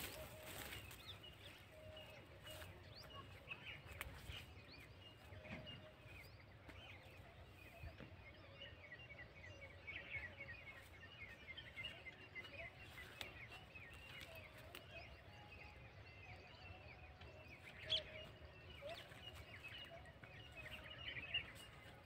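Faint birdsong: many quick chirps, busiest about halfway through, with a lower call coming and going. One sharp click near the end.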